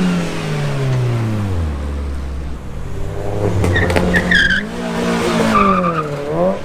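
A car engine revving: the revs fall away over the first two seconds, then climb and drop back twice. Short high-pitched squeals cut in over it a little past the middle.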